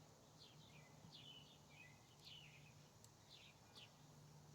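Faint bird chirps, short falling notes repeating about twice a second, over a low steady hum.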